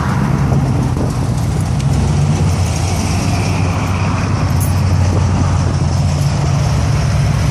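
Engines of classic cars running at low speed as they cruise past, a steady low engine note over a haze of road and street noise.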